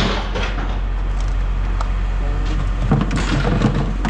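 A vehicle engine idling with a steady low hum, with a short burst of clattering about three seconds in.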